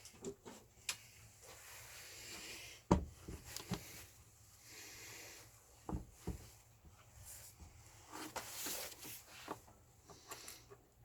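Handling noises: a few scattered knocks and clicks with some rustling as hard objects are moved and set down, the loudest knock about three seconds in and two more around six seconds. No grinder motor is running.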